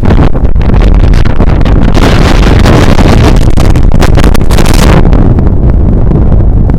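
Strong wind buffeting the microphone in a loud, uneven rumble, with a brighter rushing hiss from about two to five seconds in.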